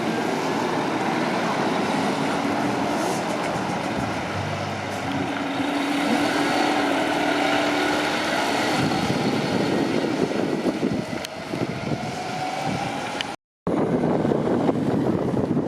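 Fire trucks driving past in a line, their diesel engines running steadily, with a few faint sliding tones under the engine noise.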